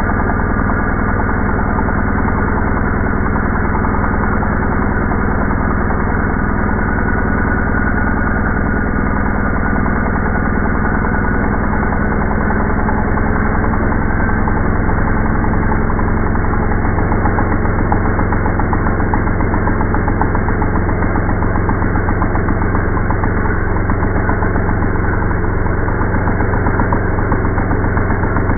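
Two-stroke engine of an ECHO EDR2400 engine drill running steadily while it drives the auger.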